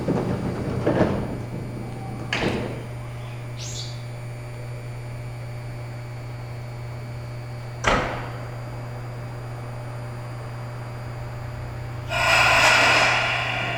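Steady low electrical hum of a stopped Seibu 8500 series rubber-tyred people-mover car, with a few sharp knocks and clunks, and a louder rush of noise with higher tones near the end.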